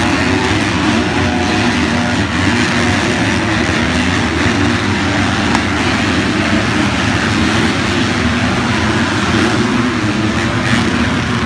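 Motocross bike engines running at racing speed, several at once, their pitch rising and falling as the riders work the throttle.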